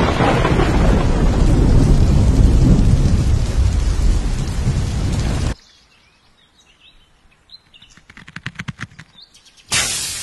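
Loud, steady rumbling noise, like thunder with rain, that cuts off abruptly about five and a half seconds in. Birds chirp faintly after it, with a quick run of clicks, then a sudden loud burst near the end that dies away.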